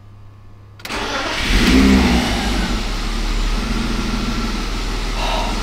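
BMW E36 320i's straight-six engine cranked by the starter, catching almost at once, flaring up briefly and settling into a steady idle. It starts now that the faulty engine ground strap has been bridged with a makeshift ground cable, the fault behind the no-start.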